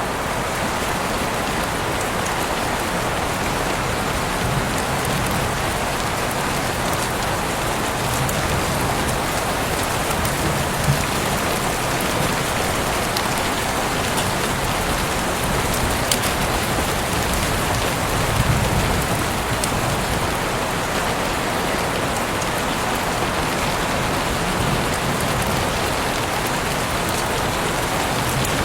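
Heavy rain pouring steadily, with a few sharper drops striking now and then.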